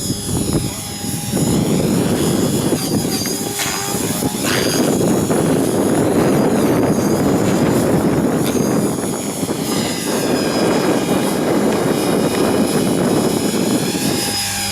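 Electric 500-class RC helicopter in flight: steady rotor noise with a high motor whine that rises and falls in pitch as it moves about.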